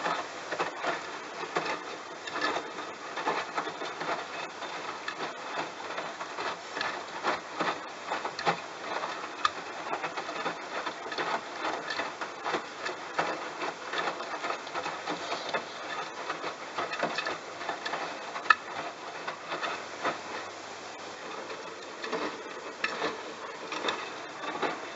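Bosch washing machine drum turning a wet load of towels: a busy, irregular patter of knocks, splashes and clicks over a steady wash noise.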